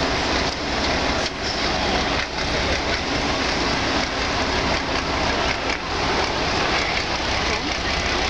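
Competition trial truck's engine running steadily.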